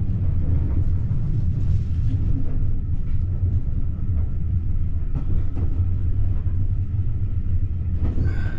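Steam-hauled passenger carriage running through a long railway tunnel, heard from inside the carriage: a steady, loud low rumble. A short high-pitched sound comes in near the end.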